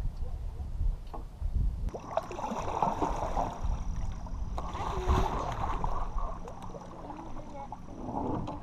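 Water splashing and lapping around a fishing kayak, with wind rumbling on the microphone for the first two seconds.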